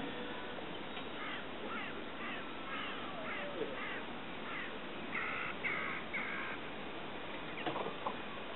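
A bird calling: a quick run of about eight short falling calls, then three harsh, even calls about half a second apart.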